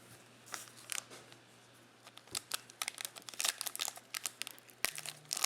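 Packs of 2020 Panini Mosaic football cards being opened and handled, with wrapper crinkles and light clicks of cards. A few isolated clicks at first, then a dense run of them from about two seconds in.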